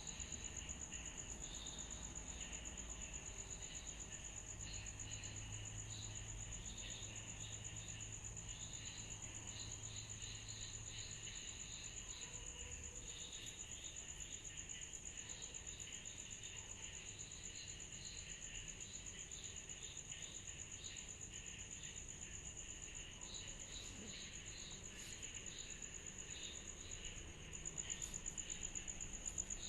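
Summer-night insect chorus: a steady high-pitched drone with rapid chirps pulsing over it throughout, fairly faint.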